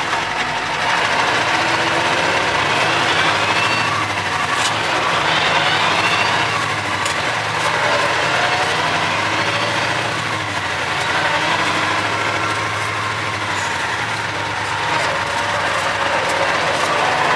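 Cummins 903 V8 diesel engine of a Ford LNT 9000 truck running steadily as the truck drives along, with a faint rising whine in the first few seconds.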